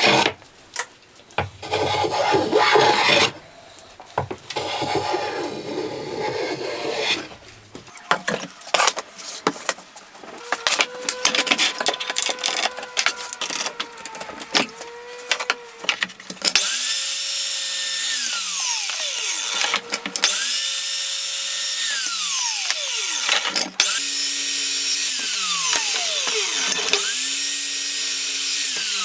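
Wood being worked by hand with scraping, rasping strokes. Then a handheld power tool runs: its motor spins up, holds steady for about three seconds and winds down, about four times in a row.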